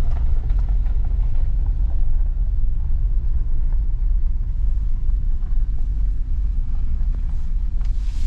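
Toyota 4Runner driving, a loud steady low rumble of engine and road noise.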